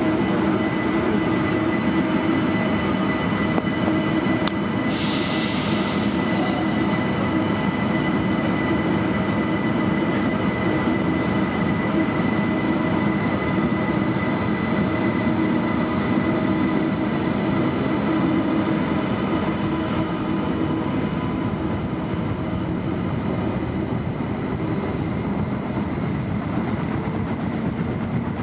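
ICE 1 (Class 401) high-speed train accelerating away from a station: its electric traction drive gives a steady multi-tone whine over the rumble of the running gear. A click and a brief hiss come about five seconds in.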